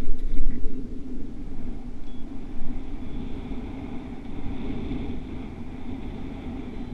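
Wind rumbling and buffeting on the microphone, gusting hardest in the first second, with a faint steady high tone coming in about two seconds in.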